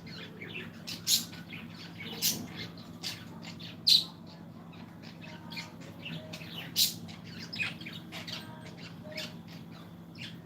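Birds chirping and squawking in short, sharp calls scattered throughout, the loudest coming about a second in, then at about two, four and seven seconds, over a steady low hum.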